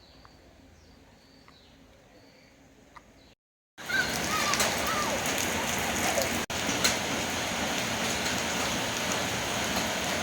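Faint high chirps at first, then after a sudden cut a loud, steady rushing hiss of water that carries on to the end.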